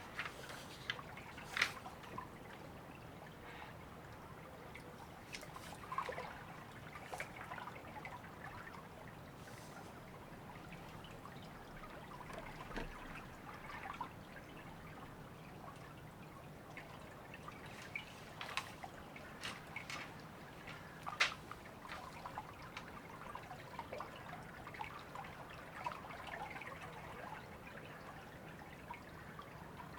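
Shallow river water trickling and dripping in a steady, soft wash. Scattered sharp clicks and ticks cut through it, loudest near the start and about two-thirds of the way in.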